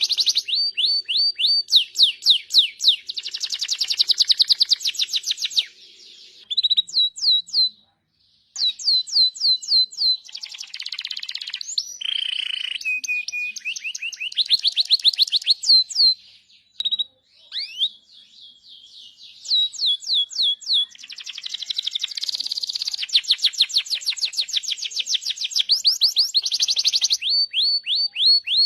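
Bird chirping in fast runs of short, high, down-sliding notes, broken by brief pauses.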